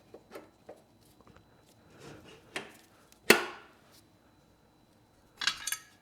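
Metal parts being handled as the mower's new blade adapter is fitted onto the engine crankshaft: a few light knocks, one sharp clank about halfway through with a short ring, and a brief rattling clatter near the end.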